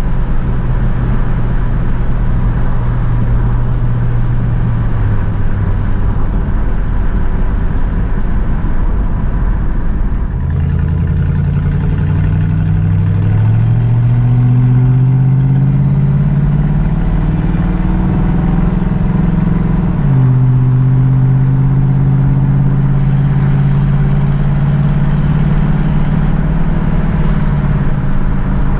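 1967 Pontiac Firebird's 327 cubic-inch V8 running at steady cruise. About a third of the way in the engine note jumps and climbs under acceleration, then about two-thirds in it drops sharply as the automatic gearbox shifts up, and runs steady again.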